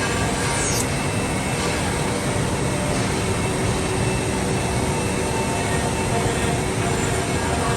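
Five-axis CNC wood router running: a steady mechanical noise with faint steady whining tones.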